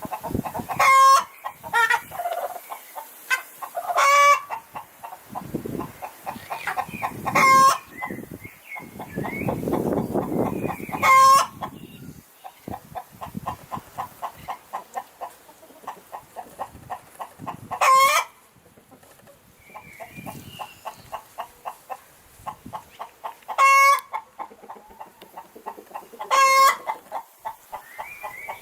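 Hens cackling: runs of quick clucks, each broken off by a loud, short, high squawk, the egg song hens make around laying. The loud squawks come about seven times, a few seconds apart.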